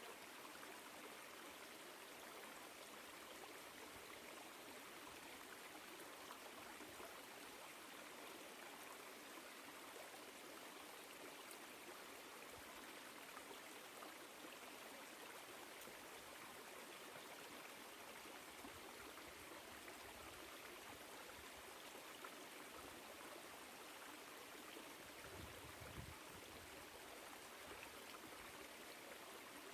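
Woodland stream flowing: a faint, steady rush of running water. A brief low rumble comes near the end.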